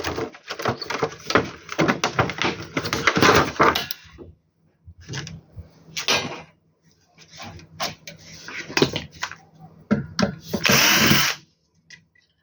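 Dense clicking and rattling of small metal parts for about four seconds, then scattered knocks. Near the end a cordless screwdriver whirrs for about a second, its pitch rising and falling, as it backs out a screw.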